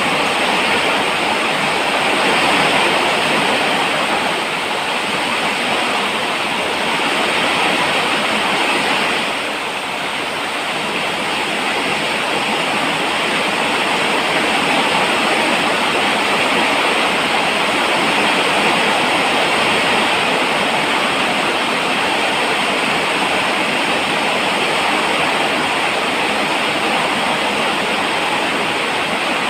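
Steady heavy rainfall, a dense even hiss of falling rain with a brief slight dip about a third of the way in.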